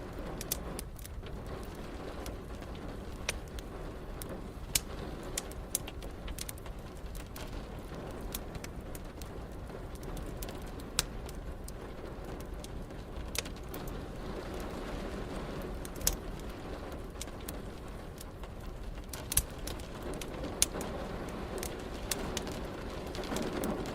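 Wood fire crackling, with sharp irregular pops, over a steady hiss of rain.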